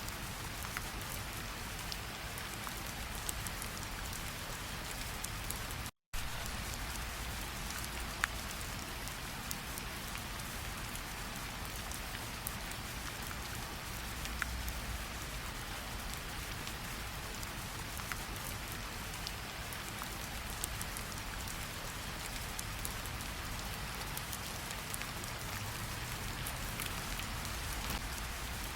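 Steady rain falling, with scattered louder single drops ticking above it. The sound cuts out completely for a split second about six seconds in.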